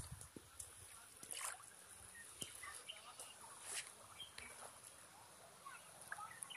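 Faint, scattered short bird chirps over a steady high-pitched hiss.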